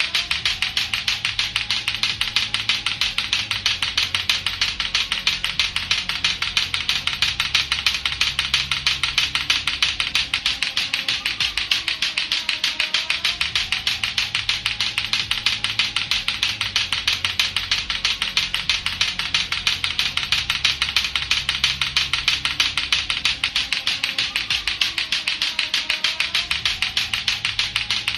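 Lato-lato clackers, two hard plastic balls on a string knocking together in a fast, steady rhythm of about five or six clacks a second. Faint background music runs under the clacking.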